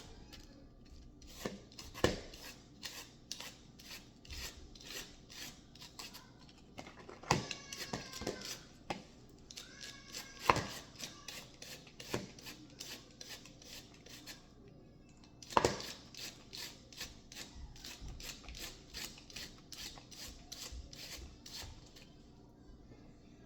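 Kitchen knife chopping food on a cutting board in steady strokes, about two a second, with a few harder knocks. A brief ringing scrape comes near the middle, and the chopping stops shortly before the end.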